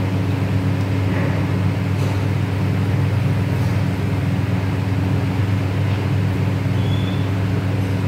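Steady low mechanical hum with an even drone and no change in level, like a running motor or fan. A faint short high note sounds about seven seconds in.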